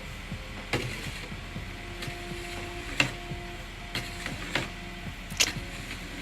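Snow shovel working snow off and around a car: about five sharp, irregular knocks and scrapes a second or so apart, over a low steady background hum.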